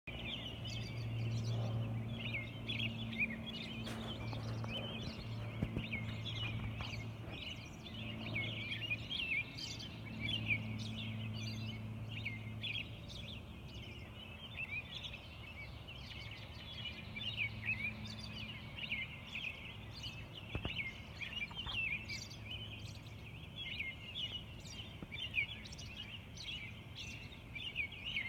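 Early-morning chorus of many small songbirds: dense overlapping chirps and trills. A low hum comes and goes underneath during the first half.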